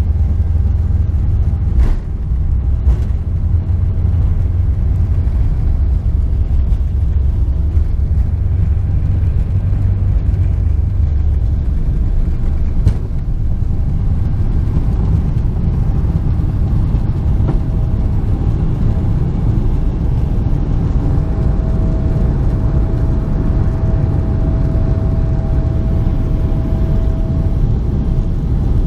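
Boeing 777 jet engines and airflow heard inside the cabin as a steady low rumble, with a few brief knocks in the first half and a steady whine that comes in around the middle and grows stronger later.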